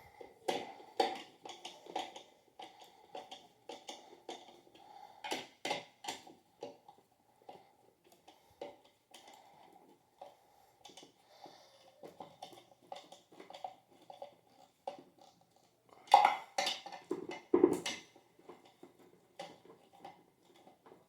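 Scattered clicks and knocks of metal ceiling-fan parts and screws being handled and tightened by hand, busier and louder for a couple of seconds near the end.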